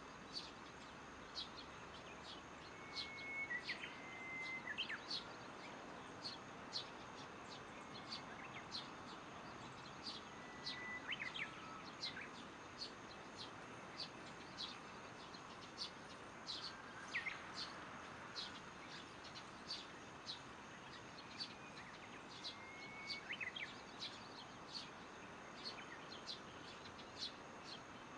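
Birds calling at dusk: one bird repeats a short high chirp a little faster than once a second, while others give occasional whistled notes. Beneath them is a faint, steady hum of insects.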